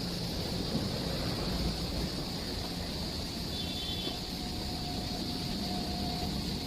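Steady running noise of a train: an even rumble and hiss with no clear rhythm, and faint thin tones drifting in about halfway through.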